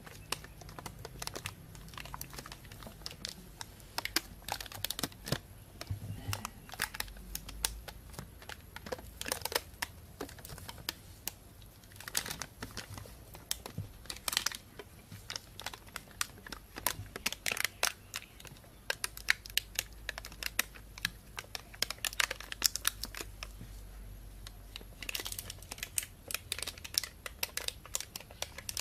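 Thin plastic bag crinkling as it is handled, an irregular stream of rustles and sharp crackles, thicker in a few bunches.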